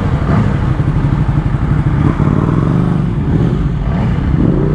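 Motorcycle engine running while riding in traffic, its revs wavering and then climbing in the last couple of seconds.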